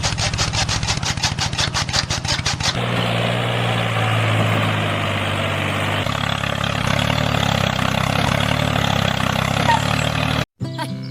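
An engine cranking, with rapid even pulses of about seven a second, catches after about three seconds and runs steadily. It cuts off abruptly shortly before the end.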